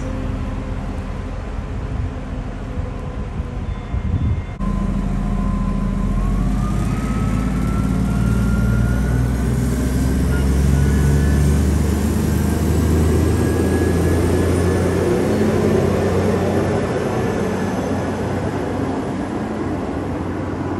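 Diesel multiple-unit passenger train on the line, its engine drone and running noise swelling to a loud steady rumble, with a whine that rises in pitch as it gathers speed. The sound breaks off abruptly a little over four seconds in before the rumble builds.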